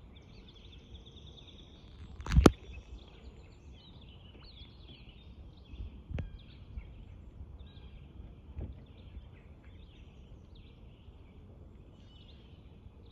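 Small birds chirping and singing on and off over a low outdoor rumble, with one loud sharp knock about two seconds in and two fainter knocks later.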